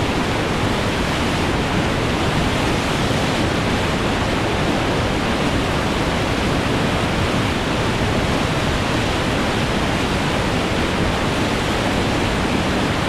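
Whitewater rapids rushing steadily, heard from a raft running through them.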